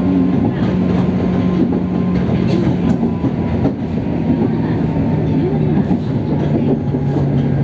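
JR 103 series electric train running, heard from inside the car: the traction motors growl with a steady low hum that drops a little in pitch about halfway through and again near the end, over rumbling rail noise with occasional clicks of the wheels over rail joints.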